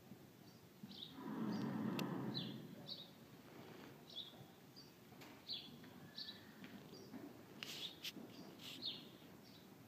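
Small birds chirping over and over, short high chirps every half second or so. About a second in, a louder rushing noise lasts for about a second and a half, and a few sharp clicks come near the end.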